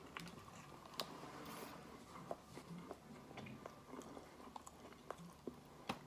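Faint chewing of a mouthful of grilled chicken sandwich: soft wet mouth clicks and smacks, with a sharper click about a second in and another near the end.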